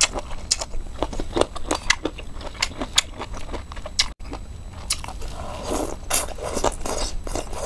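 Close-up chewing of boneless hot and sour chicken feet, with crisp, wet crunches and crackles as the rubbery skin and cartilage are bitten. The food is crunchy and springy.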